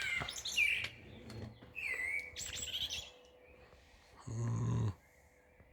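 Birds chirping and singing in the predawn chorus: several short whistled calls that glide up and down, over the first three seconds. About four seconds in comes a brief low buzzing noise lasting about half a second.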